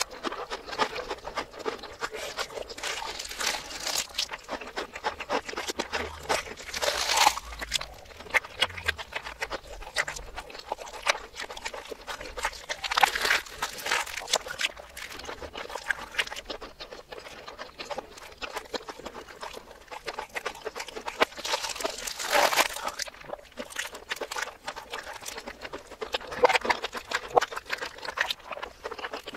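Close-miked crunching and chewing of crispy fried chicken, played backwards: a steady run of wet crackles and mouth sounds with several louder crunchy bites spread through.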